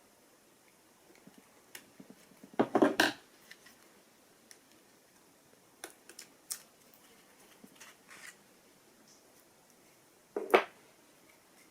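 Small clicks and handling noises of tools and plastic pump parts being worked on, with a short clatter about three seconds in and a single sharp knock near the end.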